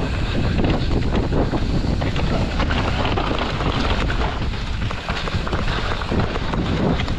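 Wind buffeting the microphone of a mountain bike riding fast down a dirt trail, with tyre noise and many short knocks and rattles from the bike over the bumps.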